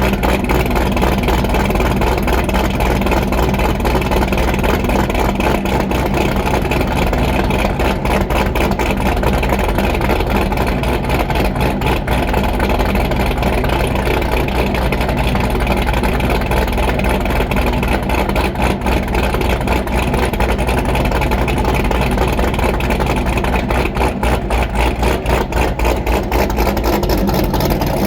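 2013 Corvette C6 Z06's 7.0-litre LS7 V8 idling with a choppy, uneven big-cam lope from its BTR Stage 3 camshaft, breathing through American Racing headers and Corsa Extreme exhaust after a cold start.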